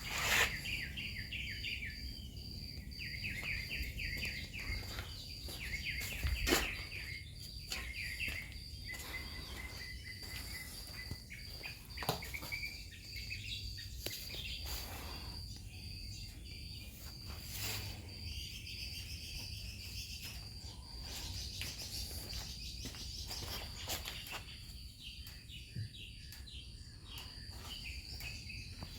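Outdoor ambience: birds chirping in repeated short phrases over a steady high insect buzz, with a few scattered knocks, the loudest about six and a half seconds in.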